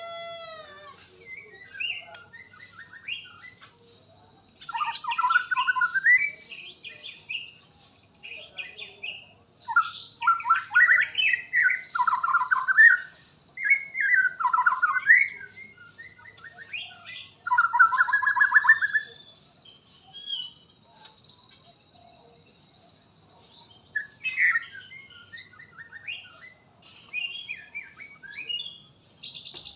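A murai songbird singing loud, varied whistled phrases in several bursts, with short pauses between them. In the gaps a steady high-pitched buzz comes and goes, several seconds at a time.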